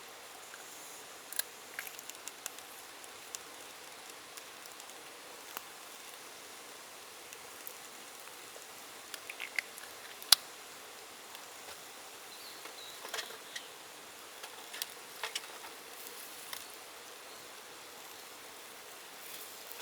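Scattered sharp clicks and pops at irregular intervals over a faint steady hiss, the loudest single pop about ten seconds in.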